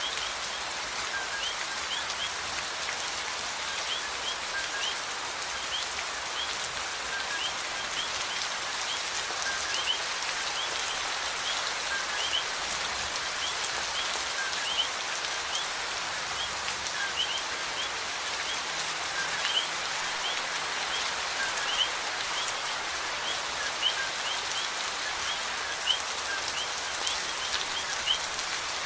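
Steady rain falling, an even hiss with a few louder drops. Short high chirps from a small creature repeat about once a second or faster throughout.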